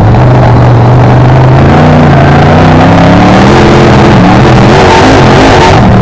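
BriscaF1 stock car's V8 engine at racing speed, heard loud from on board the car. The engine note climbs steadily under acceleration, wavers, then drops near the end as the throttle comes off.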